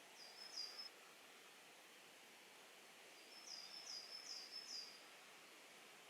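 A small bird calling faintly over a quiet outdoor hiss: two high, quick down-slurred notes at the start, then a run of four more about three seconds later.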